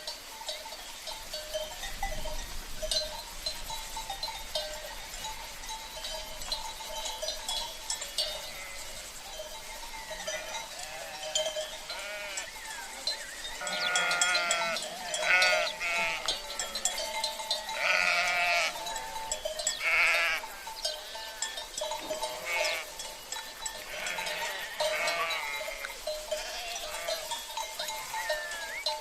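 A flock of sheep bleating over and over, the calls thickest and loudest in the middle, with livestock bells clanking steadily throughout.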